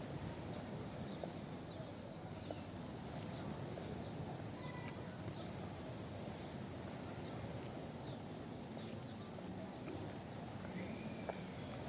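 Outdoor promenade ambience: a steady low wash of people and distant activity, with a short, high, falling chirp repeating about once a second.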